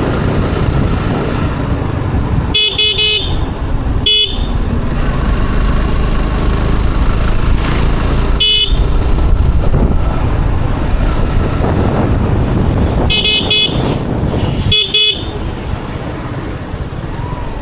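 Steady low rumble of a motorcycle ride, engine and wind on the microphone, with a vehicle horn beeped in short bursts: a quick run of toots about three seconds in, single beeps around four and eight seconds, and two more runs of toots near the end.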